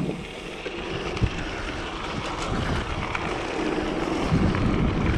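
Wind buffeting the microphone while cycling into a strong headwind: a steady rushing noise with a low rumble, and a single knock about a second in.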